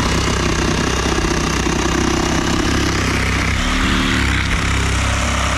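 Corded reciprocating saw (Sawzall) running steadily as it cuts through a boat hull, its motor hum under a harsh, fast-pulsing cutting noise.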